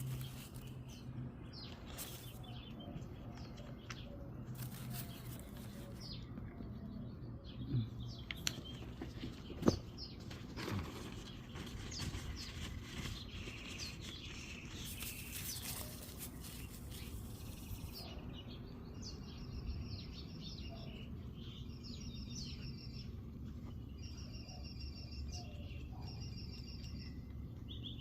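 Small birds chirping in repeated short high trills over a steady low hum, with a few sharp clicks in the middle, the loudest about ten seconds in.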